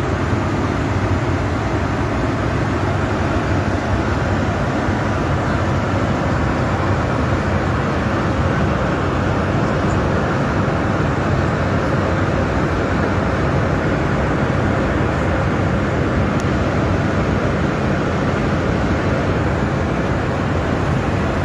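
Steady vehicle running noise, an even rumble and hiss that does not change.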